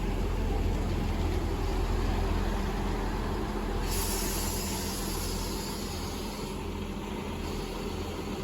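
Diesel train running with a steady low rumble; a hiss comes in about four seconds in.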